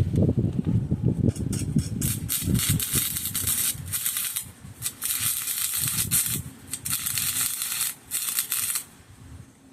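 Stick-welding arc crackling in several separate runs of about a second each, joining a thin sheet-steel patch. Low knocks and handling noise come first.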